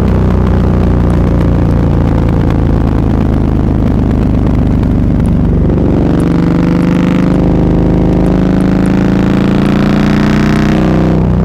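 Motorcycle engine running loud through an SC-Project aftermarket exhaust while riding. Its pitch climbs as it accelerates about six seconds in, then drops near the end.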